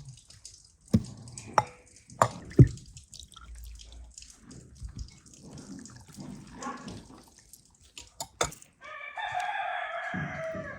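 A rooster crows once near the end, a single call of about two seconds that drops in pitch as it ends. Before it come several sharp knocks and clatter, the loudest a few seconds in.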